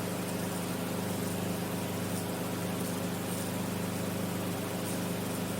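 Enstrom F28F helicopter in cruise flight: the steady drone of its piston engine and rotors, holding an even pitch throughout.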